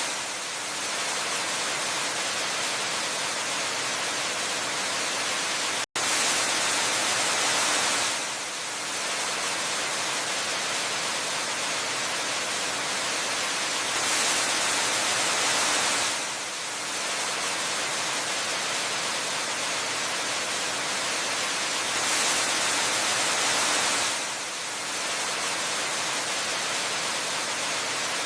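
Waterfall rushing steadily, a dense hiss strongest in the high end. It swells slightly for a couple of seconds roughly every eight seconds, and cuts out for an instant about six seconds in.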